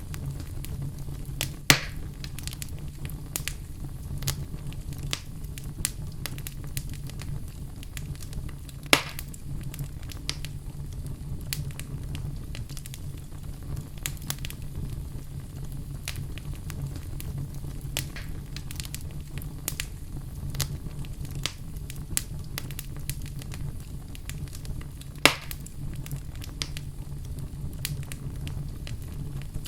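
Wood fire crackling in a fireplace: a steady low rumble of flame with many scattered small pops, and three louder snaps about two seconds in, at nine seconds and near the end.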